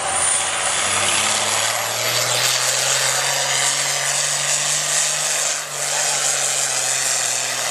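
Farm tractor engine running hard under load while pulling the sled: a loud, dense noise over a steady low hum, with a faint high whistle that slowly rises.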